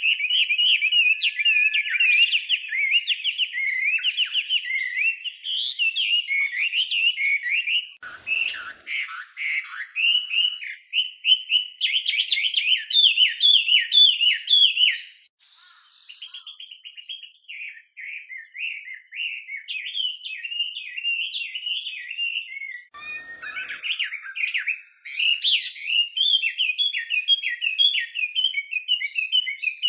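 Chinese hwamei (画眉) singing a long, varied song of rapid repeated notes and phrases, dropping briefly to a softer passage about halfway through before picking up again.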